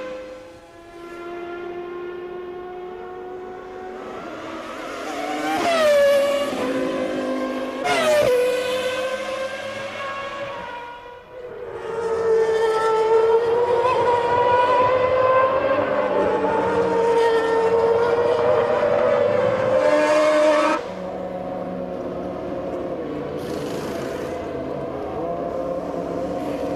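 Formula One car engines at high revs. Two cars pass, each with a sharp drop in pitch, about six and eight seconds in. Then a loud, steady high-revving engine note cuts off abruptly about twenty-one seconds in, leaving a quieter steady engine sound.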